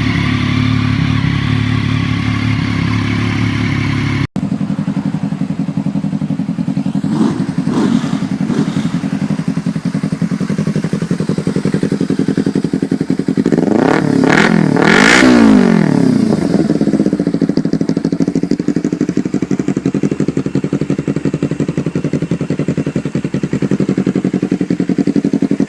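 Motorcycle engines running. For the first four seconds one engine is revving, then it cuts off abruptly. After that a motorcycle idles steadily, with a couple of quick throttle blips about seven seconds in and a bigger rev that rises and falls about halfway through.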